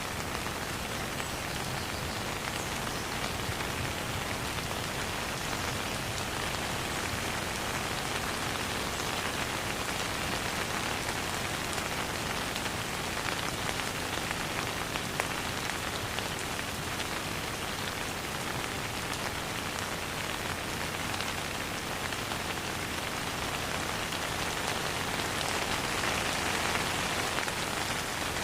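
Steady rain falling and pattering on a surface, an even hiss of many small drops without thunder, swelling slightly near the end.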